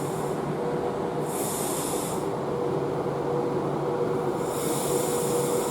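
Class 390 Pendolino electric train standing at the platform, running with a steady hum and two held tones. Two short bursts of air hiss come about a second in and again near the end.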